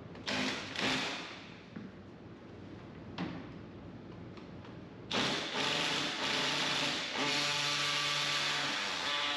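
Demolition work: a few short scrapes or knocks on wood, then from about five seconds in a power tool runs steadily for about four seconds.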